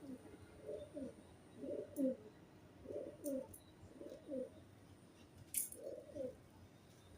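Pigeons cooing in low, repeated phrases about once a second, with a few sharp clicks among them.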